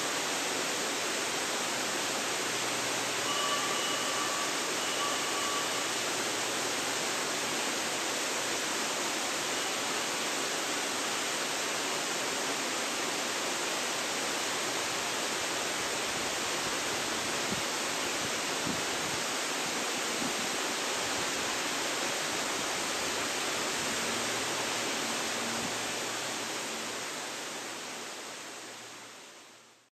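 Waterfall: a steady, even rush of falling water, fading out over the last few seconds.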